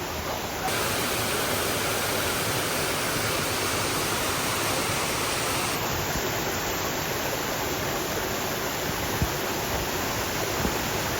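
Waterfall rushing: a steady, even sound of falling water that steps up a little about a second in, with a light knock or two near the end.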